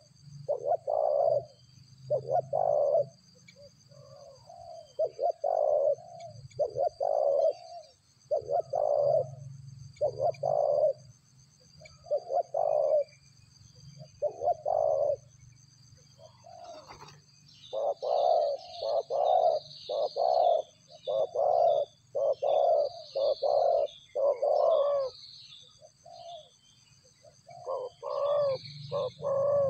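Dove-like cooing calls repeated in a long series of short notes, about one a second at first, then quicker and closer together from a little past halfway, with small birds chirping higher up over them. This is a bird-trapper's lure call.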